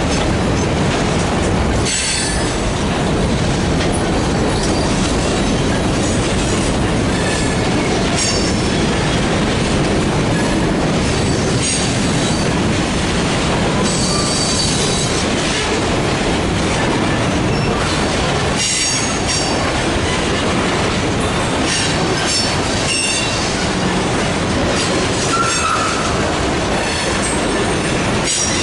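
Freight train cars rolling past in a steady, heavy rumble, with wheels clacking over rail joints and short, high wheel squeals now and then.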